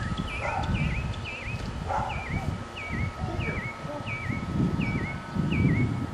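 A bird repeats a short chirp that dips down and back up, about two a second, over a low uneven rumble that swells near the end.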